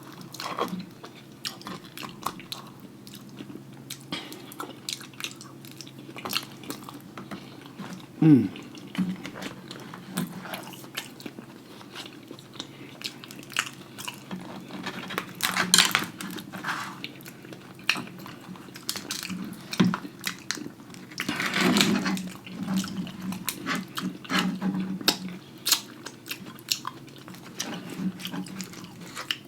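Close-miked chewing and lip-smacking as a loaded baked potato with lobster and bacon is eaten, with scattered sharp clicks of cutlery against a dish.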